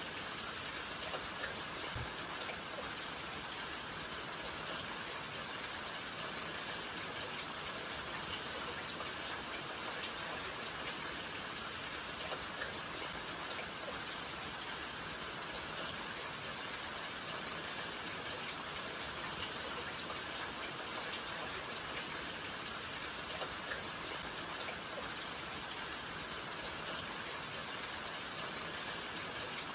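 Steady rain falling, an even hiss with scattered individual drops heard close by.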